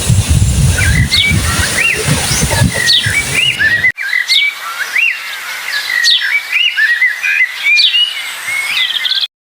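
Birds chirping and calling, a quick run of short rising-and-falling chirps. For the first four seconds a low rumble sits under the birdsong, then cuts off abruptly, leaving the birds alone; the sound stops suddenly near the end.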